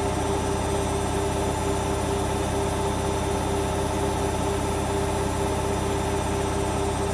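Hoover Vision Dynamic washing machine running steadily, its drum motor giving a constant whine over a low hum.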